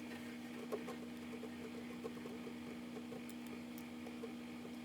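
A steady low hum with faint, scattered small clicks and rustles; one slightly louder click comes just under a second in.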